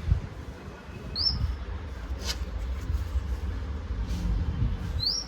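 A steady low rumble with two short, high, upward-sweeping chirps about four seconds apart, and a single sharp click about two seconds in.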